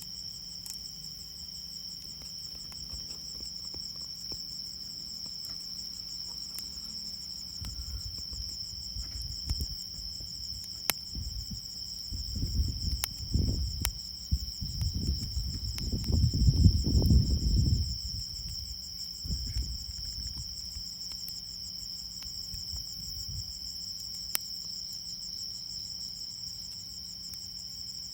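Insects, crickets by the sound, trilling steadily at a high pitch. A low rumble swells up in the middle and dies away, with a few sharp pops scattered through.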